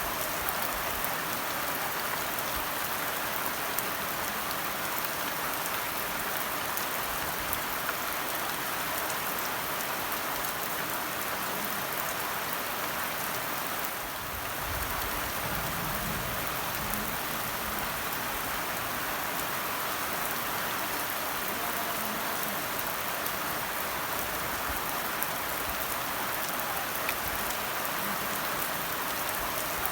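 Steady rain falling and pattering on surfaces, with a dense even hiss and scattered individual drop ticks. It eases slightly for a moment about halfway through.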